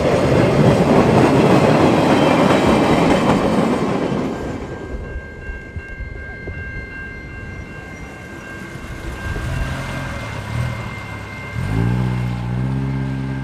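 Freight train rolling past with wheels clattering over the rails, loud for about four seconds and then fading away. A few faint steady high tones follow. Near the end a low engine note rises and then holds steady.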